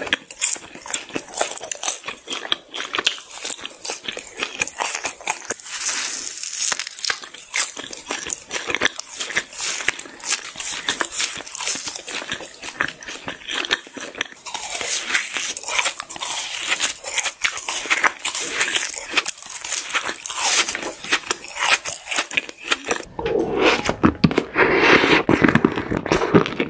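Close-miked eating of pink sweets: dense crunching, biting and chewing. About 23 seconds in, the sound turns fuller and deeper.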